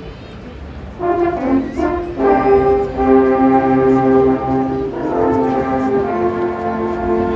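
Alphorn music: long held brass notes that begin about a second in and move to new notes a few times.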